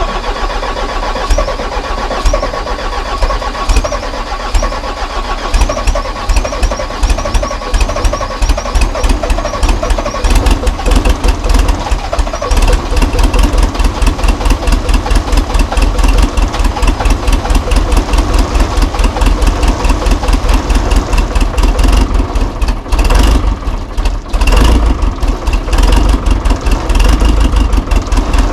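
Loader's diesel engine cold-started at −20°C without preheating, coming in suddenly and then running with a fast, regular beat that dips briefly about three quarters of the way through.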